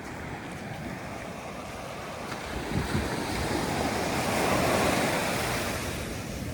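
Sea surf washing onto a beach, one wave swelling to its loudest about halfway through and then easing back, with wind buffeting the microphone. The sea is rough.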